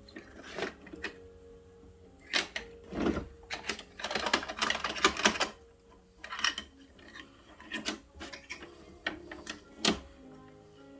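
Plastic Bruder toy garbage truck being worked by hand: irregular clicks, knocks and scraping of plastic parts, with a longer stretch of rattling about four seconds in.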